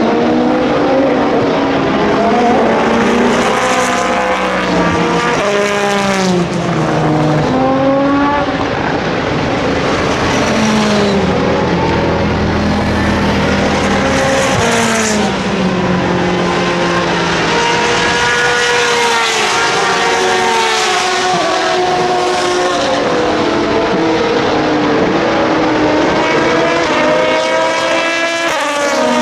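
Several endurance race cars running at speed, their engines overlapping. Each engine note climbs and then drops sharply again and again as the cars shift gear and pass.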